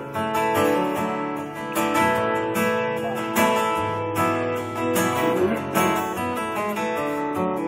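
Acoustic guitar strummed in steady chords: an instrumental passage of a song, with no singing.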